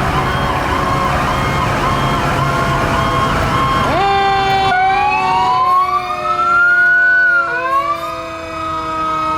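Fire truck sirens passing: a siren in a fast yelp, cycling up and down several times a second, over a low engine rumble. About four seconds in it gives way to overlapping siren tones, one climbing slowly in pitch while others slide slowly down.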